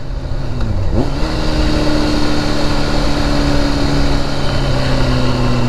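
Vehicle engine and road noise heard on the move: a steady engine note that dips and picks up again about a second in, then slowly falls in pitch.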